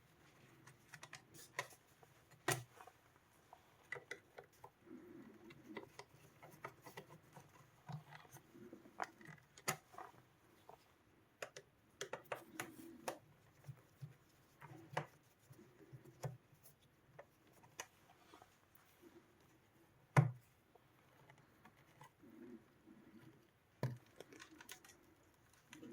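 Intermittent small clicks, taps and scrapes of hand tools and hands working at a device's casing, with a sharper knock about 20 seconds in.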